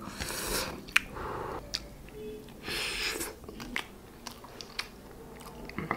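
A man chewing a mouthful of biryani rice and soft potato, with small wet mouth clicks and smacks. Two short breathy rushes come near the start and about three seconds in.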